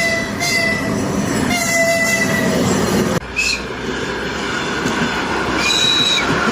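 Train horn sounding a series of blasts, short and longer, over the noise of the moving train. About three seconds in the sound cuts abruptly to another train giving a brief higher-pitched whistle, then a longer, higher whistle near the end.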